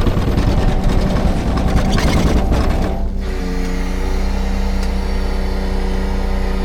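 Heavy timber truck's diesel engine running. A rough, noisy stretch with many small knocks lasts about three seconds, then the engine settles into a steady drone.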